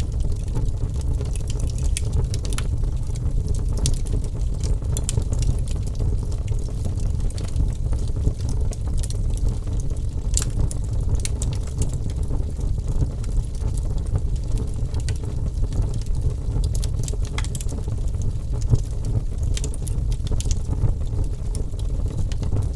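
Wood fire burning with a steady low roar and frequent sharp crackles and pops.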